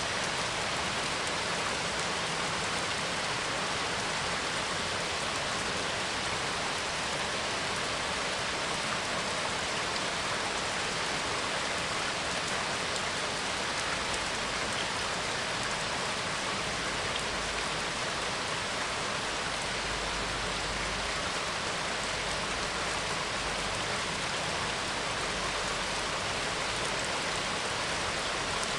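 Steady rain falling, an even hiss of drops on surfaces with no breaks.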